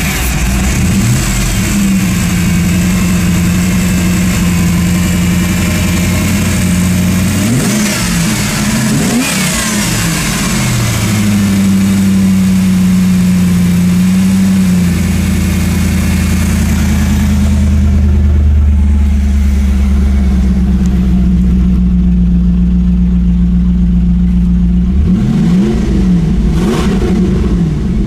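1992 Camaro Z28's 305 TPI small-block V8, with 159,000 miles, idling steadily and blipped up in revs: once about a second in, a couple of times around eight to ten seconds in, and several quick revs near the end.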